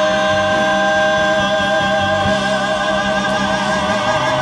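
Male singers holding a long final note in harmony, with a slight vibrato, over musical accompaniment, closing the song; the note cuts off near the end.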